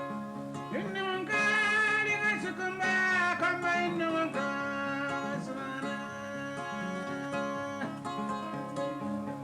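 Kora playing a repeating plucked pattern, with a singing voice holding long, wavering phrases over it from about one second in to about four seconds in.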